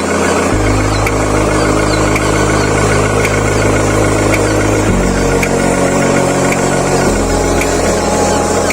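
Truck engine sound running steadily, its pitch jumping abruptly to a new steady level about half a second in, again near five seconds and about seven seconds in.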